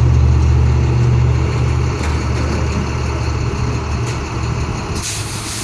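Large truck engine idling with a steady low rumble, a little louder in the first two seconds. A short hiss comes near the end.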